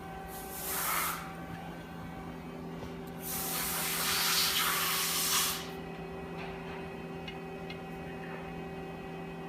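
Two bursts of hissing noise, a short one about half a second in and a longer one of about two seconds midway, over a steady electrical hum.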